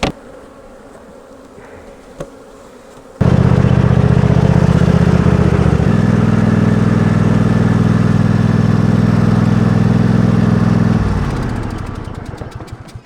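Honey bee buzzing right at the microphone: a loud, steady buzz that starts suddenly about three seconds in, shifts pitch about halfway through, and fades away near the end as the bee flies off. A faint hum of bees around the open hives comes before it.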